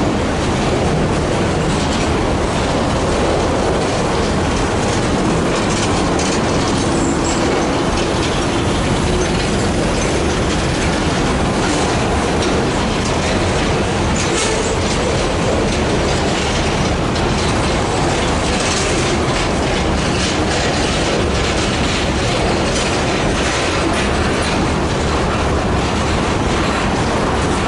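Freight train cars rolling past, with a steady loud rumble and wheels clicking over the rail joints.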